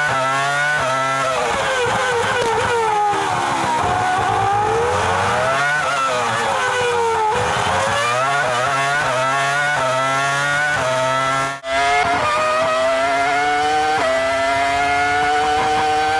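Formula 1 V10 engine heard onboard, its pitch climbing and dropping through gear shifts and braking. About twelve seconds in the sound cuts out for a moment, and then an engine holds high revs, slowly climbing.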